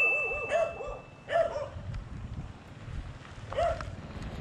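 A dog barking in quick short barks, several in the first second and one more near the end, with a brief steady high tone during the first second.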